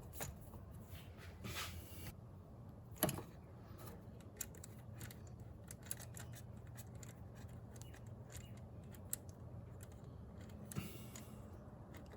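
Small clicks and light rattles of hands working on engine-bay parts, with one sharper knock about three seconds in, over a faint low hum.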